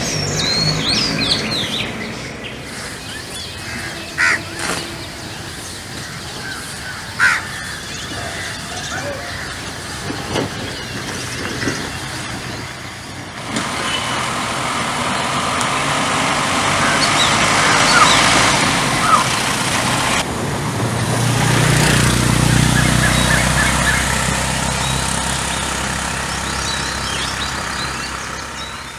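Birds chirping and calling over steady outdoor background noise, with a low rumble of a passing motor vehicle in the later part.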